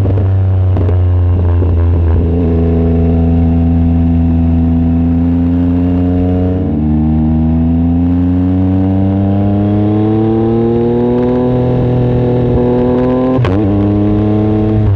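Yamaha MT-09 SP's inline three-cylinder engine, exhaust baffle removed, pulling under acceleration: the revs climb steadily, drop at an upshift about seven seconds in, climb again, and drop at another shift near the end.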